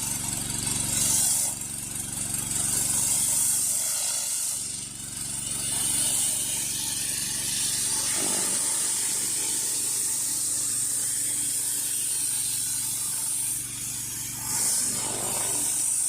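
High-pressure water hissing steadily from a 16-inch Whisper Wash surface cleaner working on concrete, over the steady drone of the pressure washer's engine. The hiss dips briefly a few times.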